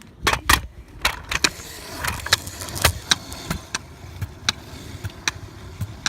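Kick scooter rolling on pavement: a low rumble from the wheels with irregular clacks and rattles.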